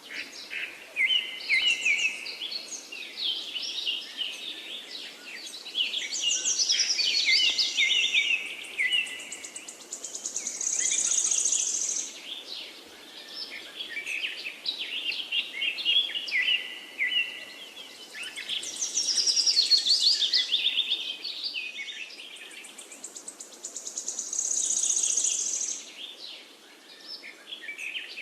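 Birdsong: several birds singing and chirping in quick, overlapping phrases, with a high buzzy trill twice.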